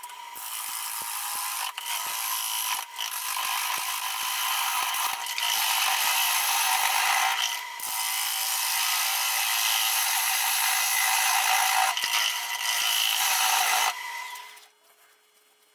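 Turning gouge cutting into a spinning green-wood blank on a wood lathe: a steady rasping hiss with a few brief breaks. It stops about fourteen seconds in, leaving a faint steady hum.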